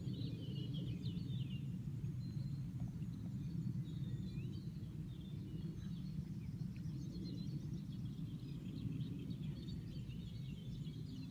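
Steady low outdoor background rumble with small birds chirping and twittering on and off.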